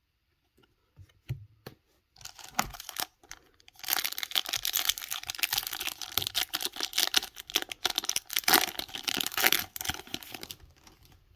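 Foil wrapper of a Pokémon TCG booster pack being torn open and crinkled: a few light clicks, then about six seconds of dense crackling that stops suddenly near the end.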